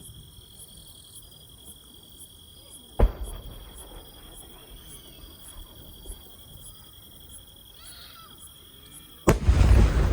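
Two firework shells bursting overhead: a sharp bang about three seconds in, then a louder boom near the end that rumbles and crackles on. Between them, insects chirp steadily, a high steady trill with a pulsing chirp over it.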